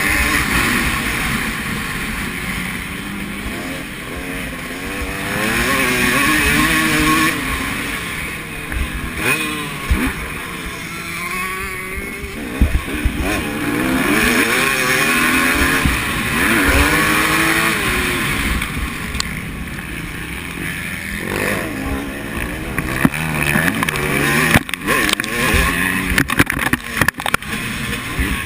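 Motocross bikes racing round the track, engines revving up and falling back again and again as they accelerate and shift. Near the end there is a run of knocks and crackles on the microphone.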